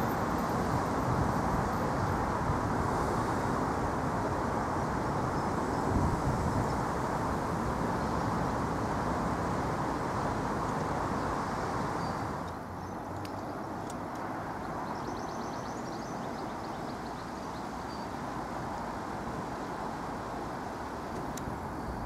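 Passenger coaches rolling along the track, a steady rumble of wheels on rails that turns quieter about halfway through.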